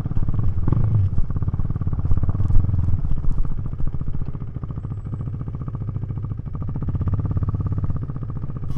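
KTM 390 Duke's single-cylinder engine running through its aftermarket Remus exhaust, with a rapid, even pulse. It drops in level about four seconds in and picks up slightly near the end.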